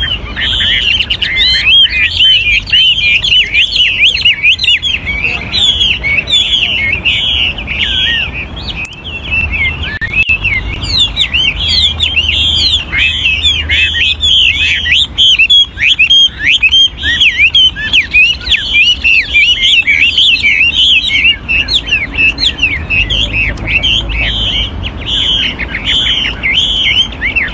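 Chinese hwamei (họa mi), an old lure bird, singing continuously: a rapid, unbroken stream of whistled notes that slide up and down and keep changing phrase.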